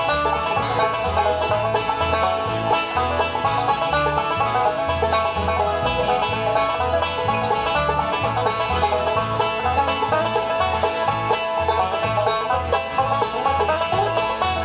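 Bluegrass music: fast picked banjo over a steady, even bass beat.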